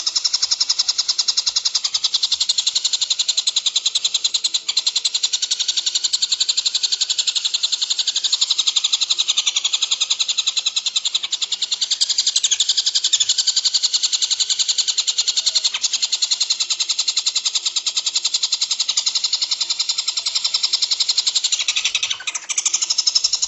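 Songbird song from a bird-tutoring recording: a continuous, high-pitched rapid chatter of fast repeated notes, with a brief break near the end.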